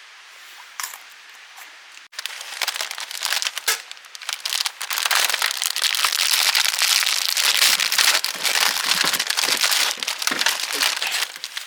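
Dense sizzling hiss with many sharp crackles and pops, which fits food cooking in hot oil or fat over a camp fire. It starts after a cut about two seconds in and is at its loudest from about five seconds in.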